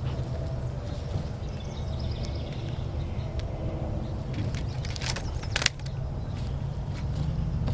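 Rubber bands being stretched around a watermelon, with a few sharp snaps about five seconds in, the loudest near the end of that run, over a steady low rumble.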